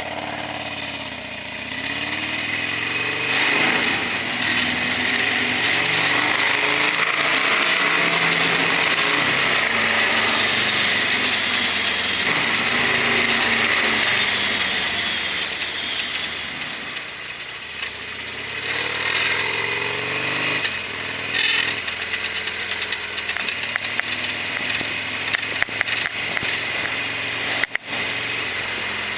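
Harley-Davidson Sportster XL1200R V-twin engine running on the move, its pitch rising and falling several times as it pulls and eases off, over a steady rushing noise.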